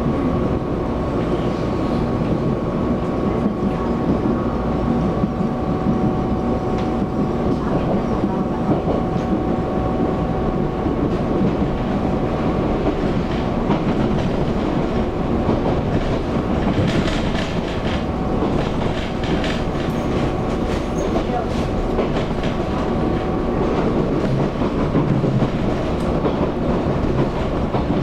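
EMU700 electric multiple unit heard from inside the car, running along the track: a steady rumble of wheels on rail with a steady tone over it. Clusters of clickety-clack from rail joints come from about 17 to 21 seconds in and again near the end.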